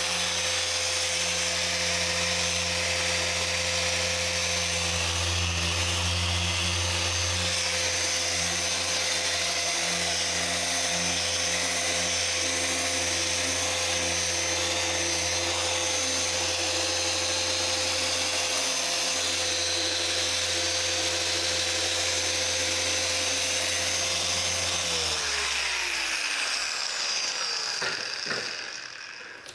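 Electric machine polisher running steadily at speed, a tool whine over a low hum, then switched off about 25 seconds in, its pitch sliding down as it spins to a stop.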